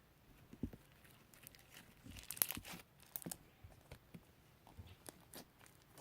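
Slime being handled and pressed, giving irregular crackles and small pops, thickest and loudest about two to three seconds in.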